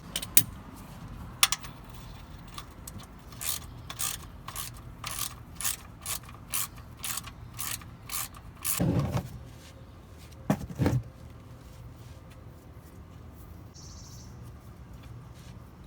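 Socket ratchet clicking in a run of quick, even strokes while the oil pan's drain plug is loosened, with a couple of louder, duller knocks near the end of the work.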